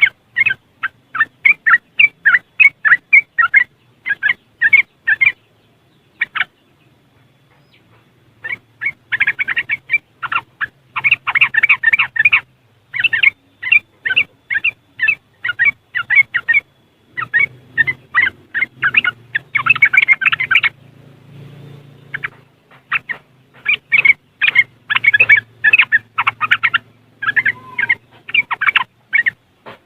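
Yellow-vented bulbul (trucuk) giving its rapid chattering 'ngriwik' calls: quick runs of short, sharp notes. It pauses briefly about six seconds in and again around twenty-one seconds.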